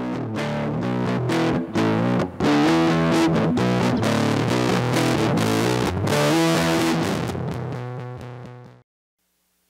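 Squier Starcaster electric guitar played through a Big Ear Pedals LOAF medium-gain fuzz pedal: distorted, woolly chords strummed, with a short break about two seconds in. The playing cuts off suddenly near the end, leaving only a faint amp hum.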